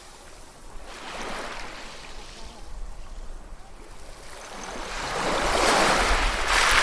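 Ocean waves surging and washing in: a small swell about a second in, a lull, then a larger wave building and peaking near the end.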